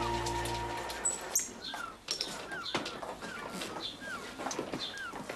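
Small birds chirping, short hooked calls repeated every half second or so, with scattered light clicks and knocks. A held music chord fades out about a second in.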